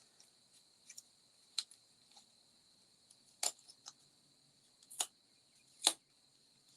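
Scattered light clicks and taps from small paper pieces being handled and pressed down at a craft table, four of them sharper than the rest, over a steady high-pitched hum.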